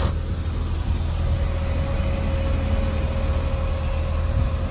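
A car engine idling: a steady low rumble with a thin, steady hum above it.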